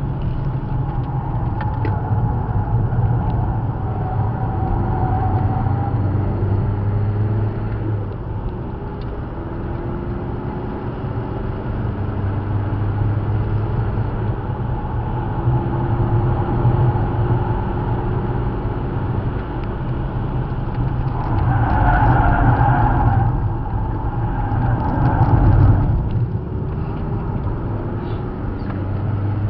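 Car engine heard from inside the cabin while lapping a race circuit, its pitch rising and falling as the car accelerates and slows for corners, over a steady low rumble. Near the end the sound gets louder and brighter for a few seconds.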